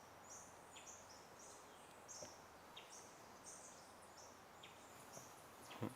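Near-silent jungle ambience with faint, short, high chirps repeating irregularly, about two a second, from a small jungle creature.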